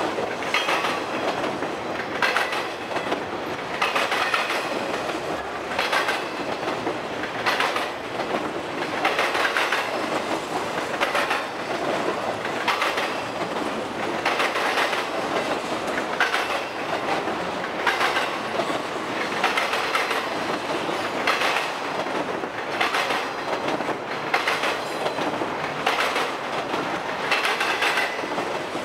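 Freight cars of an intermodal train rolling past, flatcars carrying truck trailers: a steady rumble of steel wheels on rail, with a burst of wheel clatter about every two seconds as each car's wheel sets pass over the crossing diamond.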